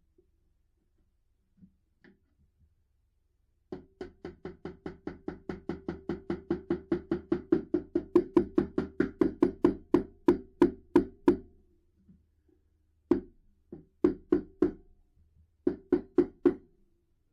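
Rapid hammering on wood, about four to five blows a second, each with a short ringing note. The blows grow louder over several seconds, then stop. Three short bursts of blows follow near the end.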